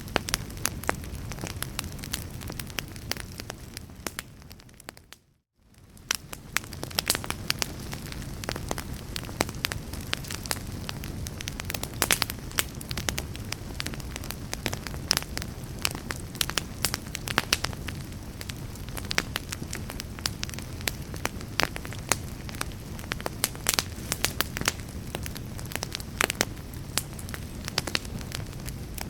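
Fireplace fire crackling, with frequent sharp pops over a steady low rumble. About five seconds in it fades out to a moment of silence, then fades back in.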